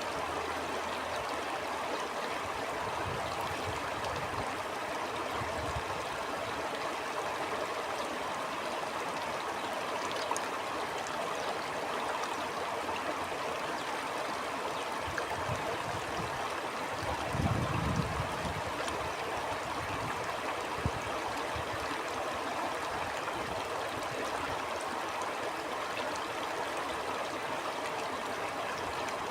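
A stream flowing steadily with a continuous rushing, gurgling sound. A brief low rumble rises and fades about two-thirds of the way through.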